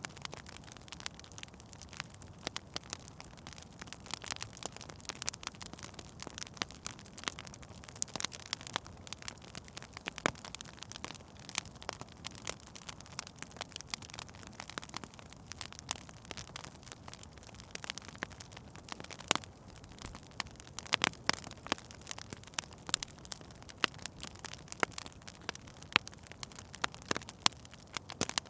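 Fire in a fireplace crackling: many irregular sharp pops and snaps over a low steady hiss.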